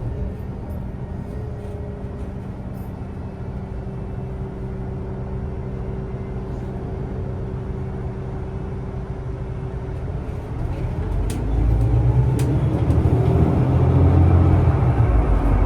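Public transport vehicle running, heard on board: a steady hum with a faint whine, then a louder low rumble from about eleven seconds in as it picks up speed.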